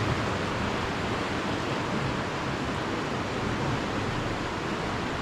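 Flash-flood water rushing past in a steady, unbroken roar.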